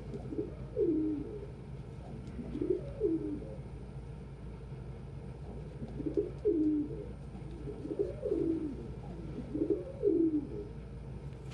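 Domestic pigeons cooing, a short low coo phrase every couple of seconds, over a steady low hum.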